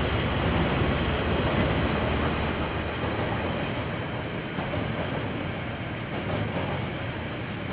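A KiwiRail train passing: a steady broad rumble and rail noise, loudest in the first couple of seconds and easing slightly after.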